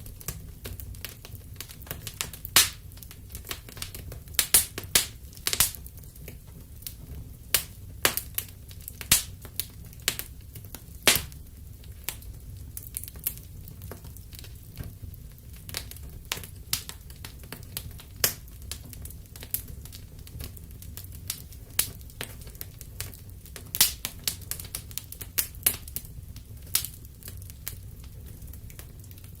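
Wood fire crackling in a fireplace: irregular sharp pops and snaps, a few a second with some much louder, over a low steady rumble of the flames.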